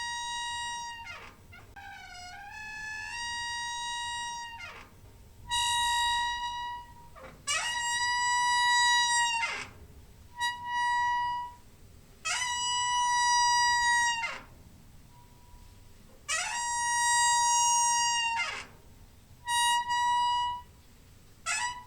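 Door hinge squeaking: about eight long, high squeaks one after another, each sliding up into a steady tone, holding it for one to two seconds, then dropping away.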